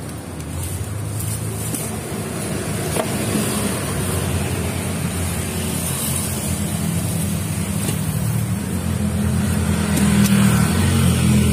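Road traffic: a motor vehicle's engine running with a steady low hum that grows gradually louder.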